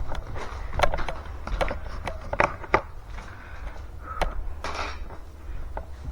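Irregular clicks and knocks of objects being handled, about a dozen sharp taps, with a brief rustle near the end.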